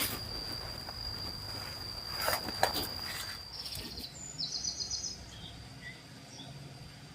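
Forest ambience: a steady high-pitched insect whine, broken by a couple of rustling thumps about two seconds in. Past the middle come short, rapidly pulsing trills and a few faint bird chirps.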